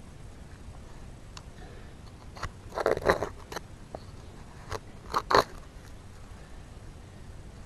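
Digging in yard soil: a run of crunchy scrapes and stabs into dirt about three seconds in, then two more sharp crunches a little after five seconds, with faint clicks between.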